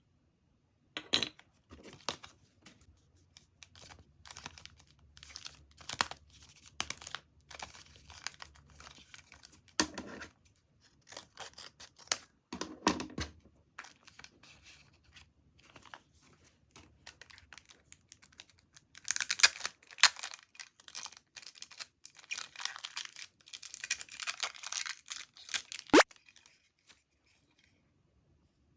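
Packaging being handled and torn open by hand: an irregular run of rustles, tearing and small taps, busiest in the latter part, with one sharp tap near the end.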